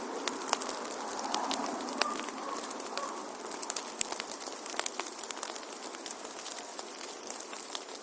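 Wood fire burning in a fireplace: a steady hiss with frequent sharp crackles and pops. The loudest pops come about two seconds in and about four seconds in.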